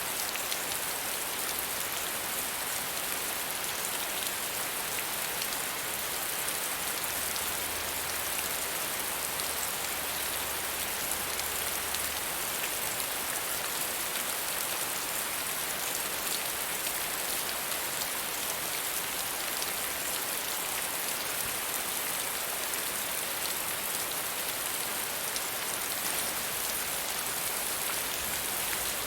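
Steady soft rain falling, an even hiss with scattered fine drop ticks.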